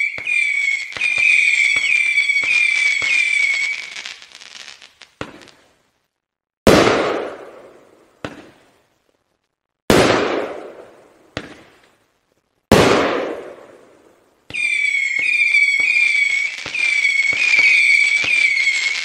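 Decibel Disruptor 30-shot fireworks cake firing: a shrill whistle over rapid cracks for the first four seconds, then three loud bangs a few seconds apart, each with a long fading rumble, then whistling with cracks again for the last four seconds or so.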